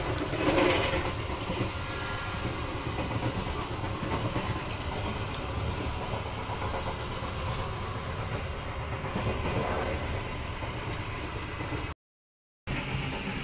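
Running noise of a moving passenger train heard from inside a carriage: a steady rumble of wheels on track, with a brief louder clatter about half a second in. The sound drops out for a moment near the end.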